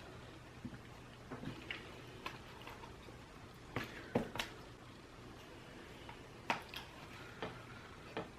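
Eating sounds close to the microphone: scattered small clicks and smacks, about ten spread irregularly, as someone eats sushi.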